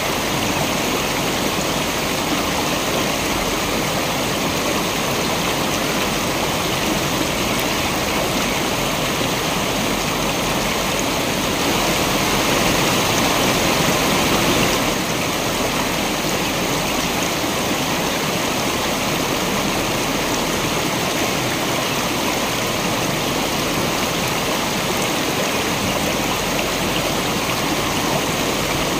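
Steady rushing of a waterfall and stream, even throughout, swelling slightly louder for a few seconds near the middle.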